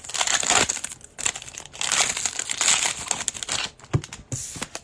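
Plastic wrapper of a trading-card pack crinkling as it is torn open and crumpled, with a soft knock about four seconds in.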